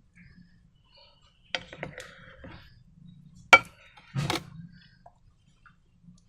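A few sharp clicks and clinks of hard containers and utensils being handled while making slime, the loudest a single sharp click about three and a half seconds in, followed by a short rustling burst.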